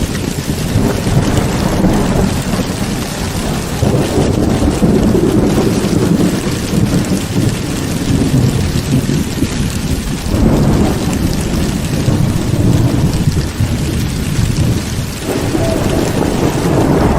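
Heavy rain pouring steadily while thunder rumbles continuously, the low rumble swelling up three times in long rolls.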